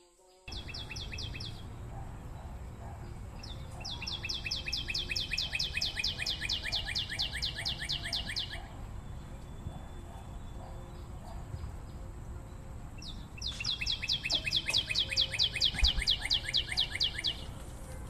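A small bird's rapid trill of high, downward-sliding chirps, about six or seven a second, in three bouts: a short one near the start, a long one of about five seconds, and another of about four seconds near the end. A steady low background noise runs under it.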